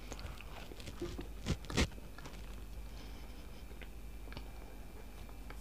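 A person eating soft food, mashed potato and chicken in a creamy sauce with bread: chewing with small wet mouth clicks and smacks, and two louder clicks about a second and a half in.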